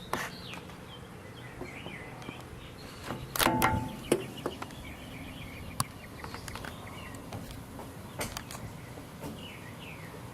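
Small birds chirping over the steady outdoor background, with one louder brief call or cry about three and a half seconds in and a few sharp clicks.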